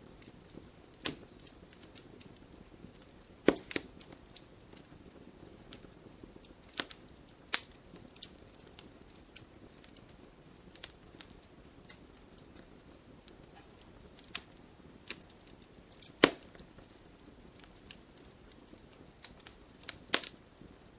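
Campfire crackling: irregular sharp pops and snaps over a soft low hiss, with a few louder cracks scattered through.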